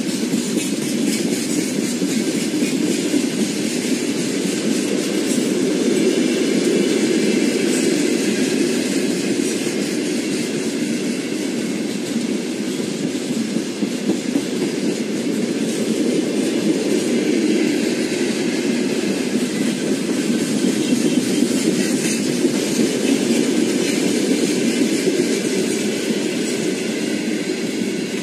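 Freight train of open-top wagons rolling past: a steady rumble of steel wheels on the rails with rhythmic clicks as the wheels cross rail joints.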